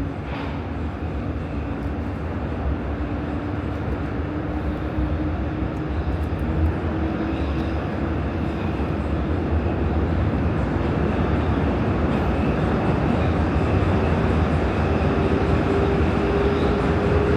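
Prague metro Line A train running between stations: steady rumble of wheels and running gear with a motor whine that rises slowly in pitch as the train gathers speed.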